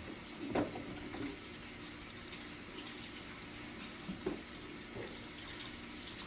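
Kitchen faucet running steadily as celery stalks are rinsed under it in the sink, with a few light knocks of the stalks against the sink.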